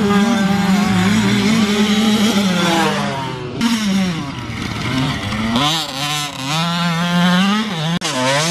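Husqvarna TC 85 two-stroke motocross bike engine being ridden hard, revving up and dropping back repeatedly as the rider accelerates and shifts.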